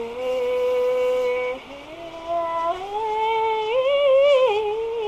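A solo voice sings a long closing note. It is held steady for about a second and a half, then climbs and wavers up and down in a run before easing back down near the end.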